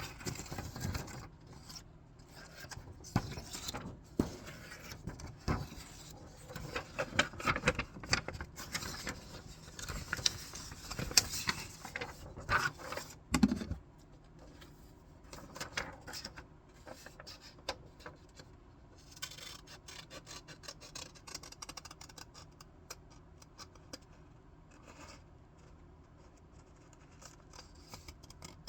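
Scissors snipping through paper amid paper rustling and handling. The snips and crinkles are loudest through the first half, then the cutting carries on more softly.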